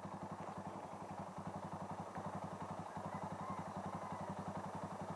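Motorcycle engine idling steadily, its exhaust beating in quick, even pulses.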